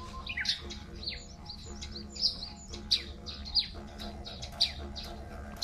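Birds chirping repeatedly: short, high calls, many sweeping downward, coming about every half-second to second, over a faint steady hum.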